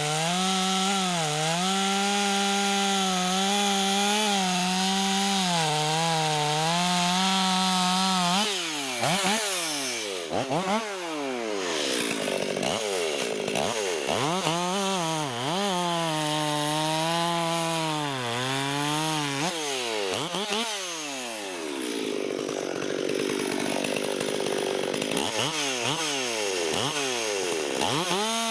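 Ported Stihl 440 chainsaw with a 460 top end, running at full throttle and cutting wood, its engine speed holding steady with small dips under load. About eight seconds in, the throttle is blipped up and down between cuts, giving quick rising and falling revs. It then settles back into a steady cut, with more blips near the end.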